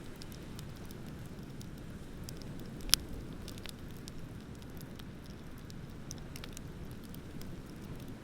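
Wood bonfire crackling with scattered sharp snaps and one loud pop about three seconds in, over a steady low rush of ocean surf.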